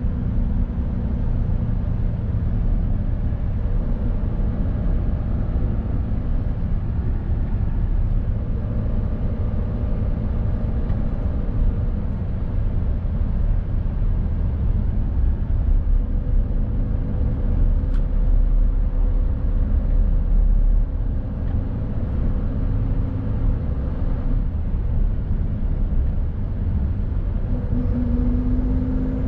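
Mercedes Actros truck's diesel engine running steadily under way, with a low rumble of road and tyre noise; the engine's hum shifts in pitch near the end.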